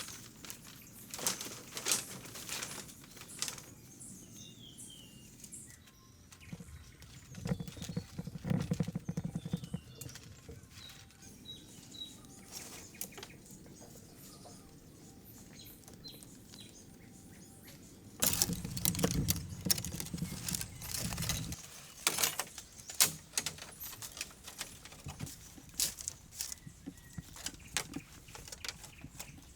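Irregular clicks, knocks and rustling from hands-on work, busiest in two spells, with a few faint high chirps in the quieter middle stretch.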